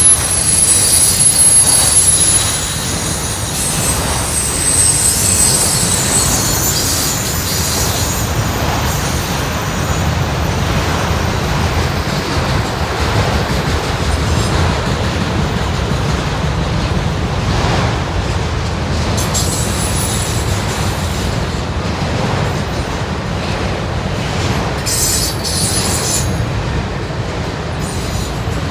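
Freight train of auto rack cars rolling past with a steady low rumble of wheels on rail. High-pitched wheel squeal sounds in the first few seconds and again briefly near the end.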